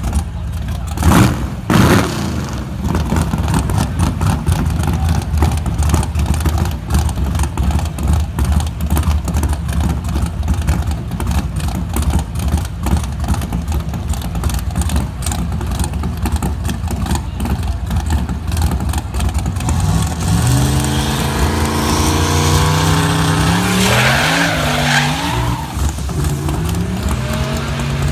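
Drag car's engine idling with a rough, rapid clatter, blipped loudly twice about a second in. From about two-thirds of the way through it revs up and down in steps, with a brief burst of rushing noise partway through the revving.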